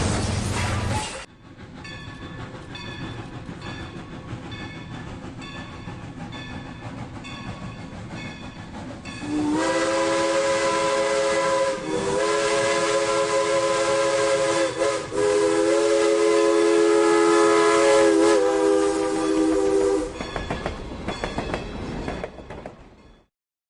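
Rail King battery-operated toy train set's built-in sound effects through its small speaker: a regularly repeating electronic chime pattern, then a long electronic train horn sound held for about ten seconds with a few brief dips in pitch. It then fades out and cuts off shortly before the end.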